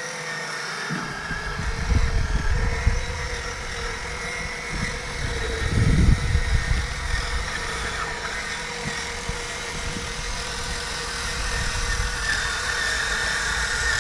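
RC4WD scale bulldozer's electric track drive running, a steady motor and gear whine with irregular low rumbles, the loudest about six seconds in.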